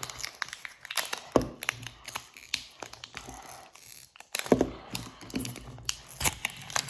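Plastic packaging of a surprise toy egg being handled and opened: irregular crinkling with many sharp clicks and cracks.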